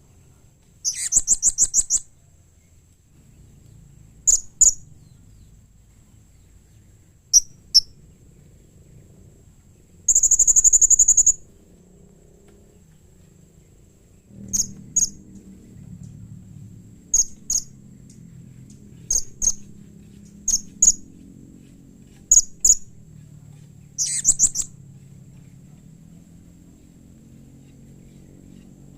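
Blue-crowned hanging parrot (serindit) calling: sharp, high-pitched chirps mostly given in quick pairs, broken up by three rapid buzzing trills about a second long each.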